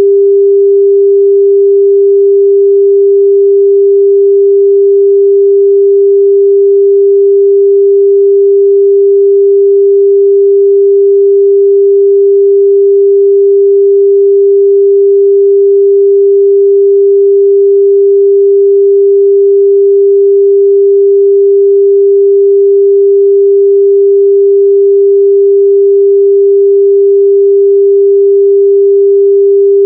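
Pure 398 Hz sine-wave test tone, held steady at one pitch and level.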